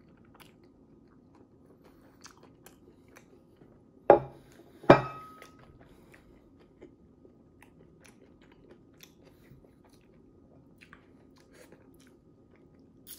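A man chewing a mouthful of soft taco, with faint wet mouth clicks. About four seconds in come two sharp knocks, a second apart and much louder than the chewing, the second ringing briefly, as a ceramic plate is set down on the table.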